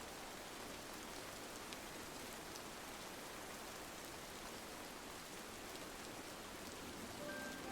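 Steady rain on a window pane, an even hiss with a few faint ticks of drops.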